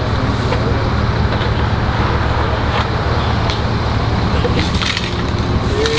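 A motor vehicle's engine running steadily at idle: an even low hum with road noise around it.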